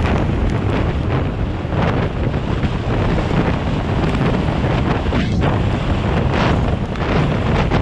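Heavy wind buffeting the microphone over a steady low rumble, with short hissing swells every second or two.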